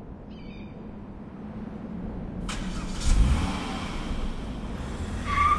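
A car engine running and revving: the low rumble builds and rises in pitch about three seconds in. A steady high note sounds near the end.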